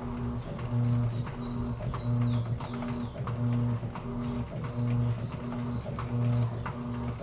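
Electrolux Essential Care LES11 top-load washing machine agitating a load: the motor hums in short, evenly repeating pulses, about one every half second, as the agitator turns back and forth, with water and fabric swishing and light ticks between the pulses.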